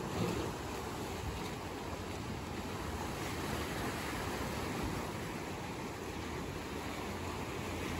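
Sea surf washing onto a beach, a steady rushing noise without breaks.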